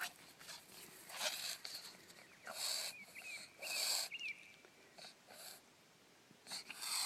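Dog reverse sneezing: a run of short, harsh, wheezing gasps pulled in through the nose, about one a second, with a brief lull near the five-second mark. A faint thin squeak sounds under the gasps a few seconds in.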